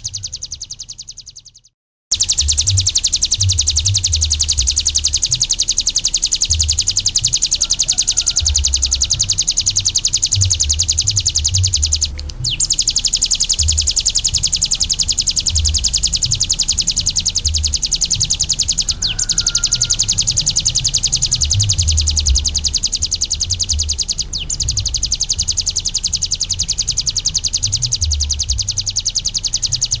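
Ciblek gunung, a small prinia songbird, singing a continuous, very fast, high buzzing trill, with a few brief pauses in the song. The sound drops out briefly about two seconds in, and an irregular low rumble runs underneath.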